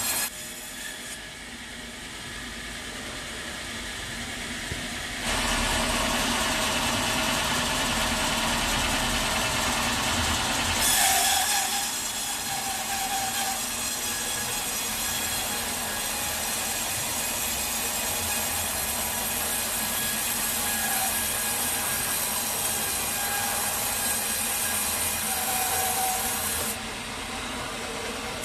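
Sawmill saw running through a log, a steady grinding machine noise. It is quieter at first, grows much louder about five seconds in, and drops back near the end, with a few short squeals along the way.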